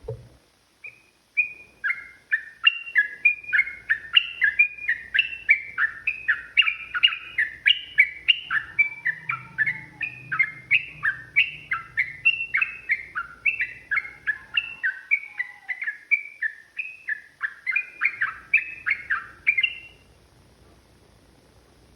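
Yellow-vented bulbul (trucukan) singing a long, rapid run of short whistled notes, about three a second, that stops a couple of seconds before the end.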